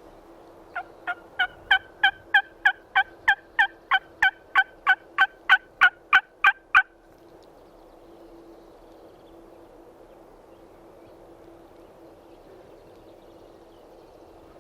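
Turkey call sounding a long run of about twenty hen-turkey yelps, roughly three a second, growing louder over the first few notes and then stopping abruptly. It is calling to a distant gobbler to get him to answer.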